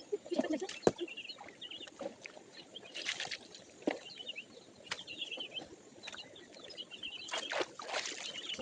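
Water splashing in a shallow stream with irregular knocks of stones, as hands turn over rocks on the stream bed. Faint chirps come through in between.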